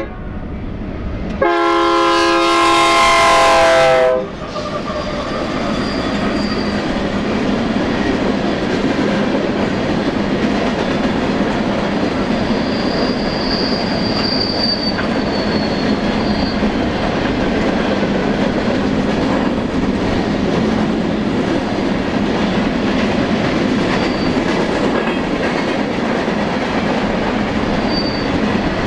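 Air horn of a BNSF diesel freight locomotive sounding one loud blast of a few seconds, starting about a second and a half in. Then the steady rumble of covered hopper cars rolling past on the rails, with a faint high wheel squeal for a few seconds near the middle.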